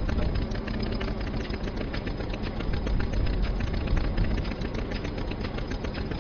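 Tractor engine running steadily with a fast, even clatter of knocks.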